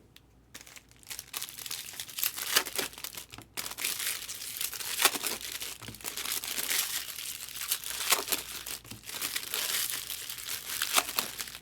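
Plastic-foil wrappers of trading card packs crinkling and tearing as they are opened and handled, a dense run of sharp crackles starting about half a second in.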